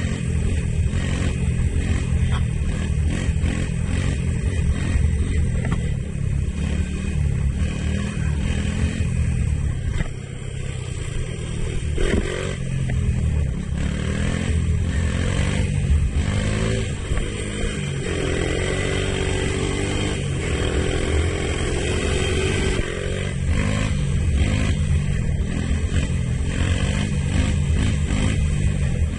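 A 1983 Honda ATC185s three-wheeler's single-cylinder four-stroke engine running under throttle while riding, revving up and easing off. It drops back briefly about a third of the way in, then revs rise again around the middle and in the latter half.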